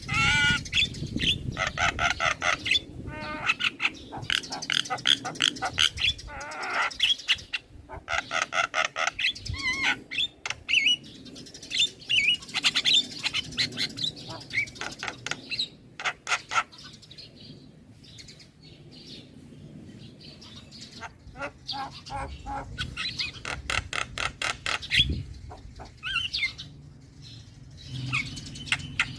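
A young male Javan myna singing eagerly: long runs of short, rapidly repeated chattering notes, pausing for a few seconds past the middle before starting up again.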